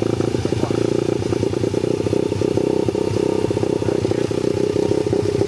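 Dirt bike engine running steadily with a fast, even pulse and no big revs.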